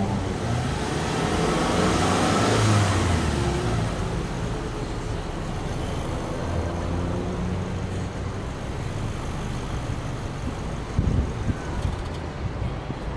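Subaru Legacy B4 2.5i's 2.5-litre flat-four heard from the exhaust, blipped in a free rev that falls back about three seconds in, then idling steadily. A few short low thumps sound about eleven seconds in.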